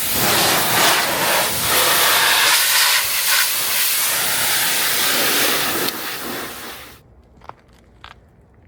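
Pressure washer jet spraying water onto a car's bodywork, a loud steady hiss that weakens about six seconds in and cuts off about a second later. A couple of faint clicks follow.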